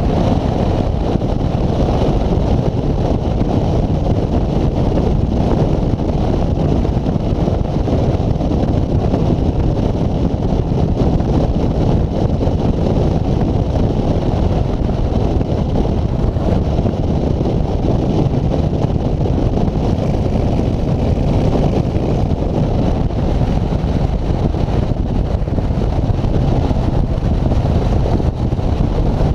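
Steady wind and road noise from riding a road bike, the rush of air buffeting the microphone without a break.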